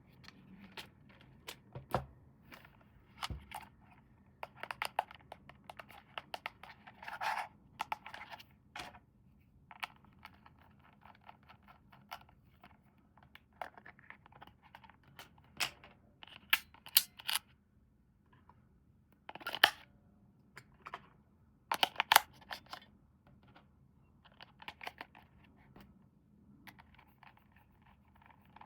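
Packaging being handled during an unboxing: irregular crinkling, scraping and tearing, with many sharp clicks and taps.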